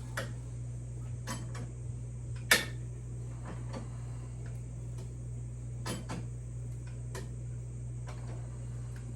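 Scattered metal clicks and knocks from a motorcycle jack being raised under a bike, with one sharp, loud knock about two and a half seconds in, over a steady low hum.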